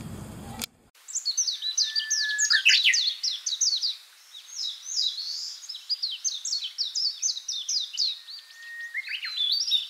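Birdsong: a dense run of quick, falling chirps, twice led in by a long held whistle. It starts about a second in, after a short stretch of low background hum cuts off.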